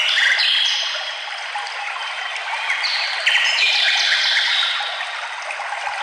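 Several songbirds singing short whistled phrases over the steady rush of a running stream, with a burst of song at the start and another about two and a half seconds in.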